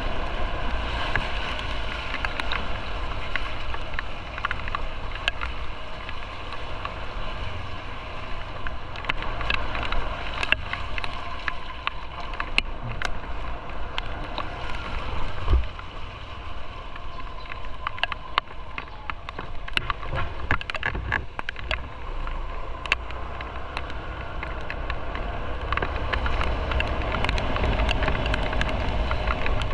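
Motorcycle riding on the road: engine and road rumble with wind noise on the microphone, and scattered sharp clicks. The level dips about halfway through and builds again near the end.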